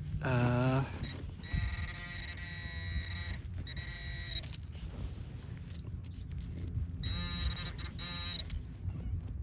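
Electronic buzzing tones from metal-detecting gear pinpointing a buried coin. A short buzz comes first, then a long steady buzz of about three seconds, and after a pause another of about a second and a half.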